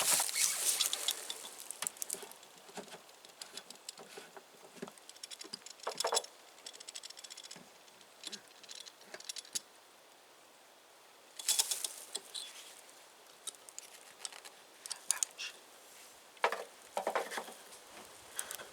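Irregular clicks, knocks and short rattles of a hand-crank diesel pump setup and its hose being handled, with a few louder clattering bursts.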